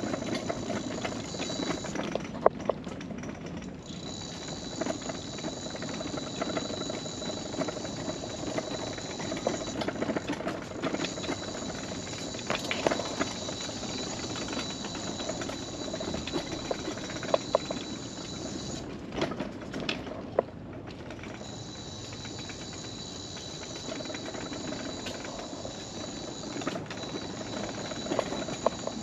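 Electric mobility scooter travelling along a wooden boardwalk: a steady high motor whine that cuts out briefly three times, over a continuous rumble and clatter of the wheels on the planks.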